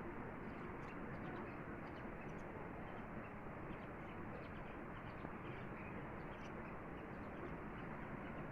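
River water flowing steadily, an even rushing with faint short high ticks scattered through it.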